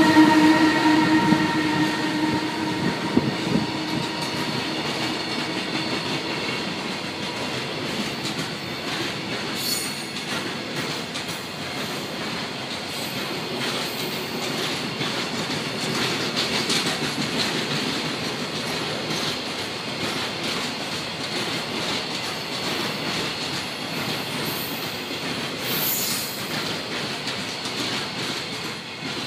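A long container freight train rolls past behind an EH500 electric locomotive, a steady rumble and rattle of wagons on the rails. It is loudest at the start, where a held, several-pitched tone fades within the first few seconds, and it dies away near the end as the last wagon clears.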